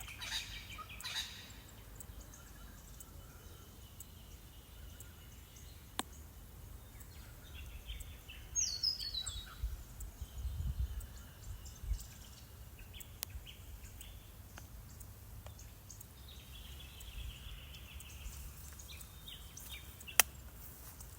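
Native Australian bush birds calling at intervals: quick runs of repeated notes, with a fast falling series of notes about nine seconds in, over a low rumble.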